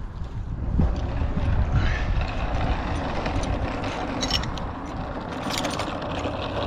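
A vehicle engine running with a steady low rumble, with a few light clicks about four and five and a half seconds in.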